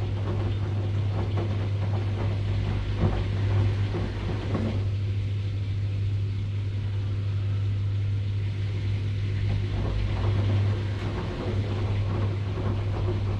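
Washing machine running, with a steady low motor hum under a rougher churning noise. The churning eases for about five seconds in the middle, then comes back.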